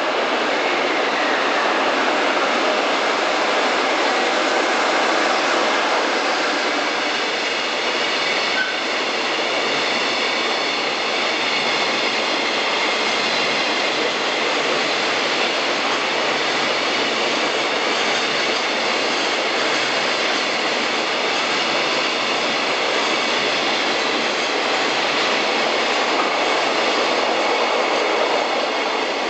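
JR Freight EF66 electric locomotive passing, then a long string of container wagons rolling by: a steady, unbroken wheel-on-rail rolling noise, with a faint high whine over it.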